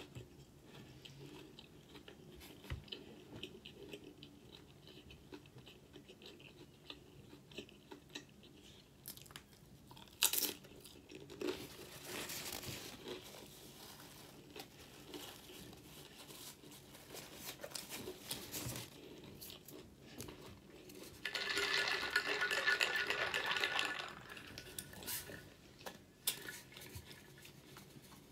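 Close-miked chewing of a sandwich with Doritos chips, with scattered small crunches and mouth clicks. A sharp crackle comes about ten seconds in, and a louder rustling noise lasts a couple of seconds about three-quarters of the way through.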